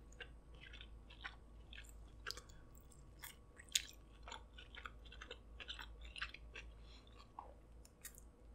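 A person chewing a small fried ball of food: faint, irregular wet clicks and smacks of the mouth, with one slightly louder click partway through.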